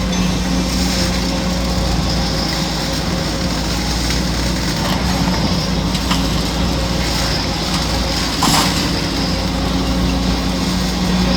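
Heavy diesel engine of a Kobelco SK850 demolition excavator running steadily under load, with a few short knocks of demolition work and one louder crash about eight and a half seconds in.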